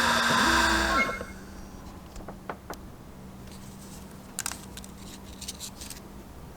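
A loud machine with a steady whine and hiss cuts off about a second in, followed by a handful of light clicks and taps over a faint steady hum.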